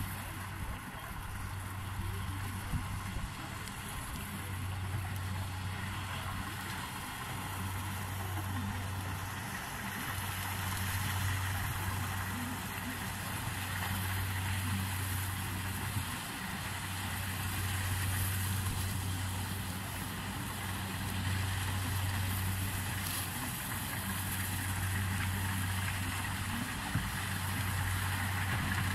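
Corn-harvesting machine running: a low engine hum that swells and eases every few seconds over a steady mechanical hiss.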